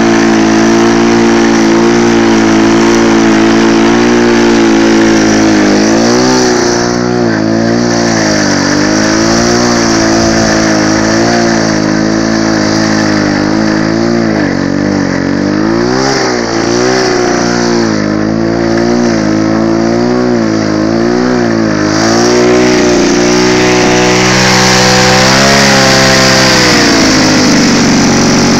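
AS-Motor two-stroke engine on a Bernard lawn mower running. Its speed holds steady for a few seconds, then repeatedly rises and falls for about fifteen seconds, then settles back to a steady run near the end.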